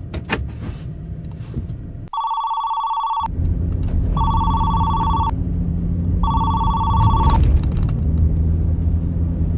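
Phone ringtone ringing three times, each ring about a second long, over the low steady hum of a vehicle engine running.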